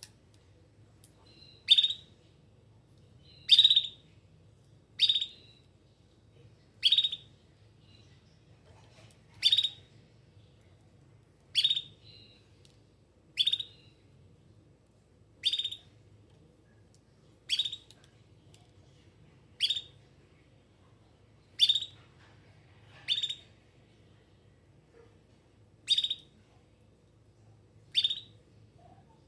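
Domestic canary giving short, loud chirp calls, one about every two seconds, calling out for other canaries.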